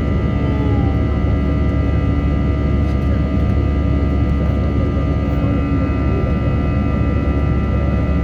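Jet engines of a Boeing airliner in a steady, unchanging drone: a heavy low rumble with a few constant whining tones above it.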